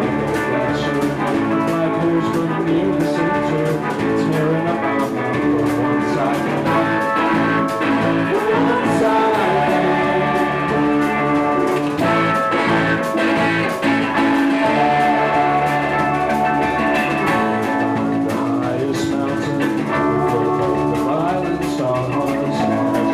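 A live rock band playing: guitar and drum kit, filling an instrumental stretch between sung lines.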